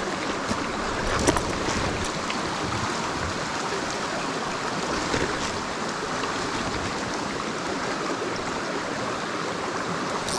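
Mountain stream water rushing steadily over rocks, with a few sharp clicks between one and two seconds in.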